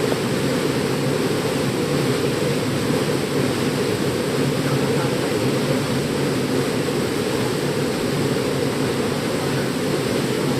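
Waterfall pouring: a steady, deep rush of falling water.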